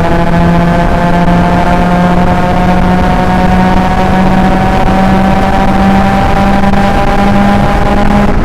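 Proton Inspira's 1.8-litre MIVEC inline-four engine pulling hard at highway speed, its pitch rising slowly and steadily as the car accelerates in gear.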